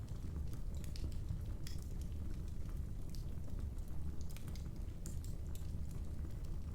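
Wood fire crackling: a steady low rumble of the burning fire with irregular sharp pops and snaps scattered through it.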